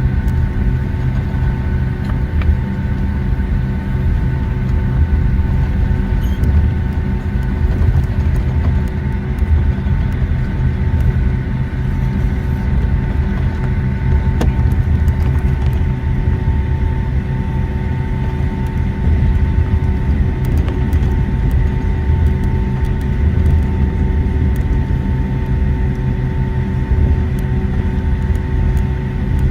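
Boeing 757-200 cabin noise while taxiing: a steady low rumble with the jet engines' whine held at several constant pitches, and a few faint clicks and rattles.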